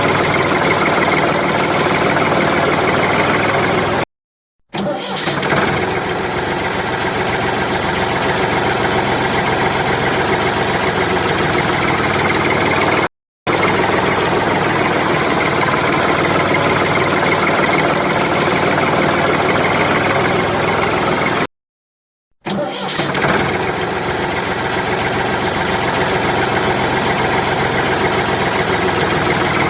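Small motor of a DIY mini tractor running steadily, with three abrupt cuts to silence. After two of them it starts up again and builds back to speed.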